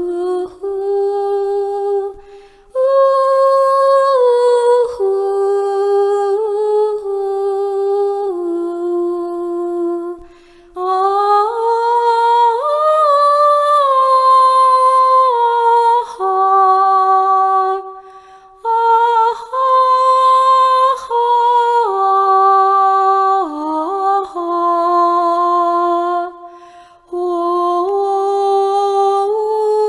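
A single voice holds long, slow, wordless notes, gliding and stepping from pitch to pitch as a free melody. The notes are broken by a few short pauses for breath. This is vocal sound-healing toning, the singer's own inner sound voiced as a melody.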